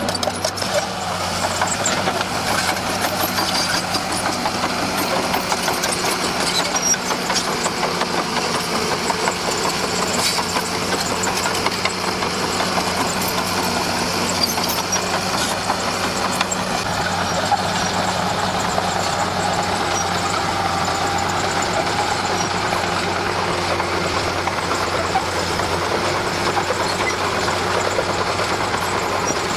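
Komatsu D41P crawler dozer's diesel engine running steadily, a continuous low hum with no change in pitch or level.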